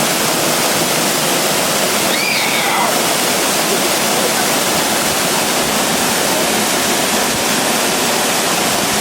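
Stewart Falls waterfall: a loud, steady rush of falling water crashing down, unbroken throughout.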